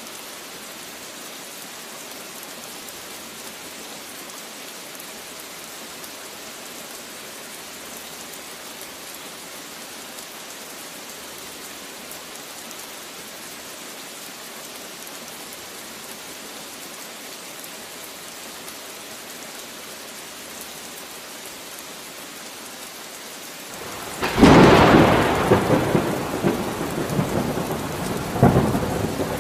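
Steady rain falling, then about 24 seconds in a sudden loud thunderclap that rumbles on and slowly fades, with a second crack of thunder near the end.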